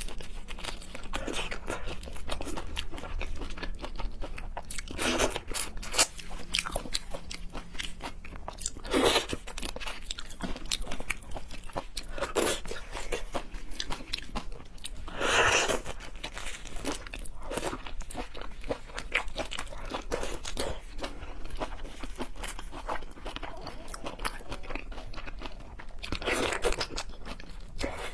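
Close-miked chewing and crunching of seafood in a person's mouth: a steady run of small wet clicks, with a louder crunchy bite every few seconds.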